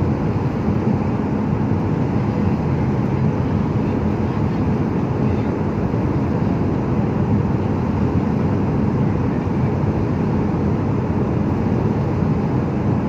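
Jet airliner cabin noise in flight: the engines and rushing air make a steady, even roar that does not change.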